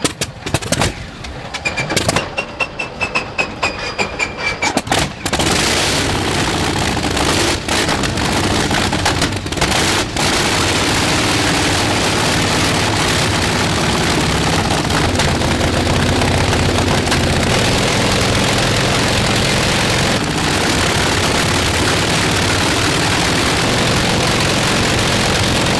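Russian radial aircraft engine starting: irregular popping firing strokes with a faint falling whine for about five seconds, then it catches and runs steadily and loud.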